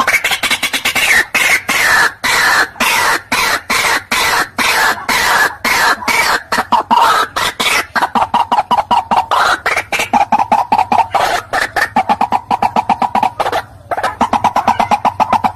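White-breasted waterhen calling: a long, loud series of harsh, rapidly repeated notes, several a second.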